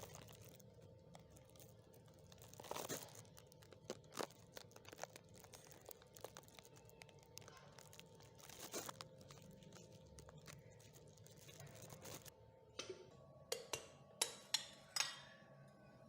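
Faint crackling and scattered handling clicks, then a few sharp metallic clinks with short ringing tails near the end.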